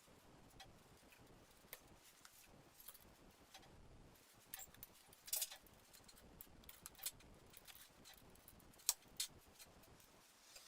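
Near silence broken by faint, scattered clicks and light taps, as of small parts being handled; the sharpest come about five and a half and nine seconds in.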